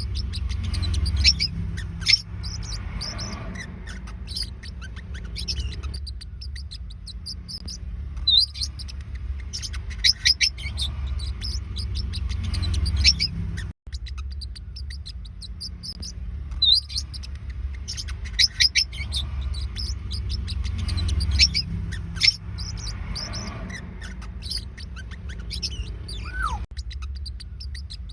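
Forpus parrotlets chirping: rapid runs of short, high-pitched chirps, over a steady low rumble. A brief break comes about halfway through, and a single downward-sliding call sounds near the end.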